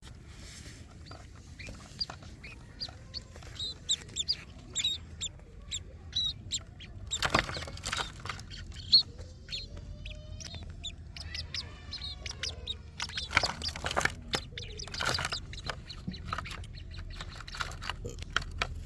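Sparrows chirping in many short, scattered high chirps, mixed with knocks and rustling.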